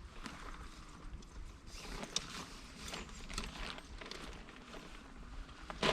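Footsteps and scattered clicks and rustles of camping gear being handled, irregular and without a steady rhythm.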